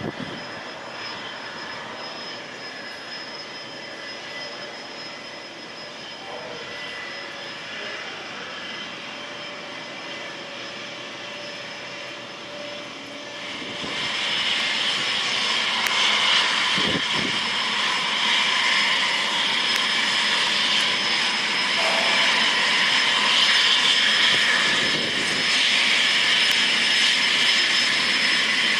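Cessna CitationJet CJ1's twin turbofan engines running with a steady high whine, growing clearly louder about halfway through and staying loud.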